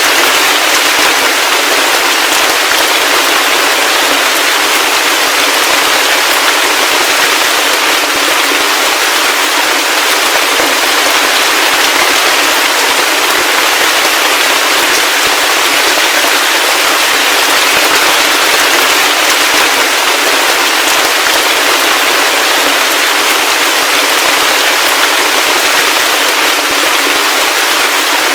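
Heavy rain falling steadily: a dense, even hiss of countless drops with a fine crackle, and no deep rumble or thunder.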